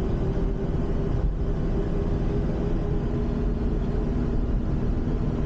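Steady engine and road noise of a moving car, heard from inside the cabin. A faint engine tone runs under it and shifts lower a little past halfway.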